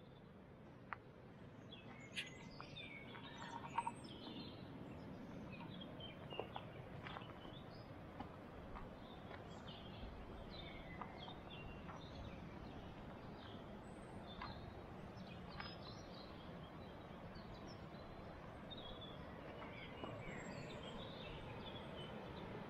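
Birds chirping and calling: many short, scattered chirps over a steady low background noise.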